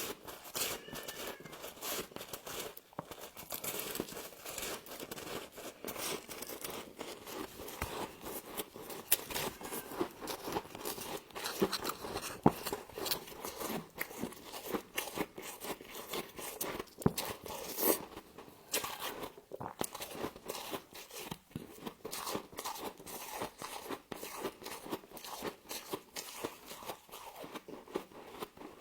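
Close-up crunching of frost being bitten and chewed: a dense, irregular run of sharp crackles and crunches.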